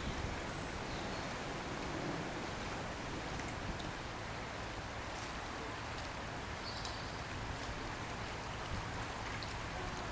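Steady rushing of fast-flowing floodwater from the swollen river, an even noise with a few faint high chirps above it.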